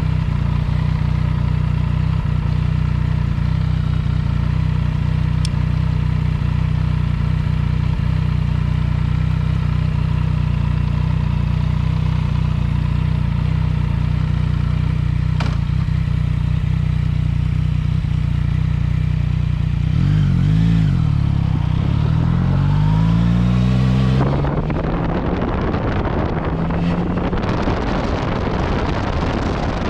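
Yamaha MT-09 Tracer's inline three-cylinder engine running through an Akrapovič exhaust. It holds a steady note for about twenty seconds, then the revs swing up and down several times. Near the end, wind rush on the microphone joins in as the engine climbs again.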